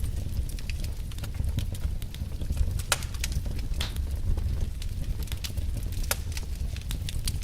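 Burning logs crackling and popping in irregular sharp snaps, the loudest about three and four seconds in, over a steady low rumble of the flames.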